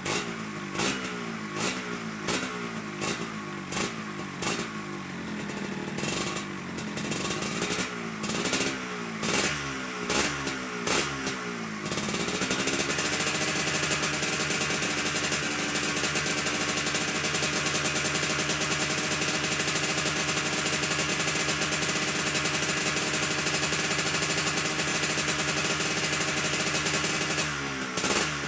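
Yamaha RXZ two-stroke single-cylinder motorcycle engine being revved in quick repeated throttle blips, then rising about halfway through to a steady held high rev, and dropping back to blips near the end. The bike is being warmed up with a leaking exhaust.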